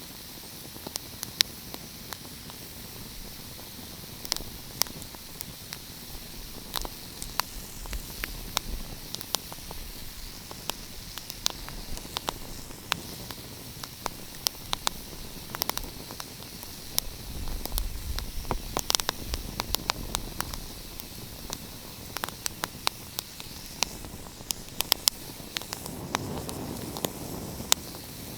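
Wood fire crackling: a steady hiss broken by frequent, irregular sharp pops and snaps, with a low rumble swelling briefly a little past the middle.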